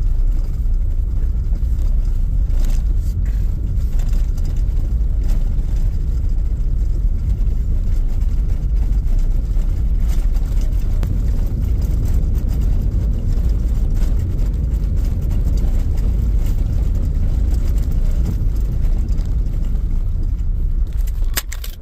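A car driving: a steady low rumble of road and engine noise, dropping away in the last second.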